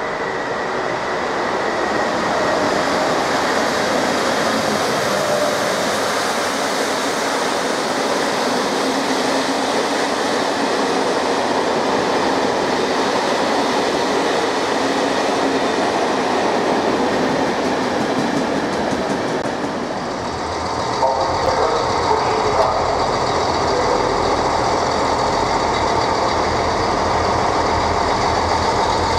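Passenger coaches of an international night express rolling along a station track: a steady rumble and rattle of wheels on rails, with a thin high wheel tone at the start. About twenty seconds in, the sound changes to a deeper rumble with a few knocks.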